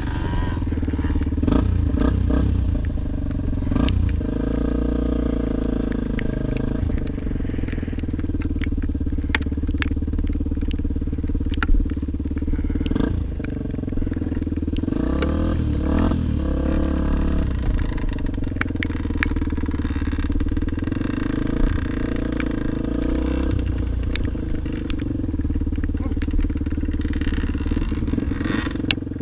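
Off-road motorcycle engine running and revving up and down with the throttle, with scattered clattering knocks over rough rocky ground.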